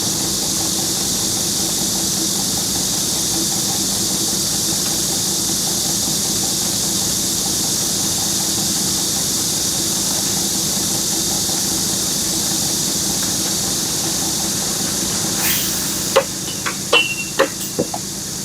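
An engine running steadily with a strong high hiss, then a few sharp clanks in the last three seconds.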